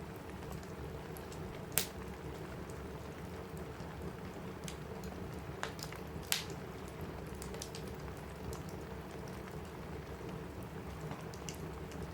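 Steady rain falling on a cabin roof, with a wood fire crackling in a fireplace: a few sharp pops stand out, the loudest about two seconds in and again around six seconds.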